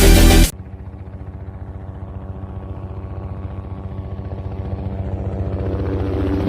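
Electronic dance music cuts off about half a second in. A helicopter then follows: a fast, even rotor chop over a steady engine hum, growing steadily louder as if approaching.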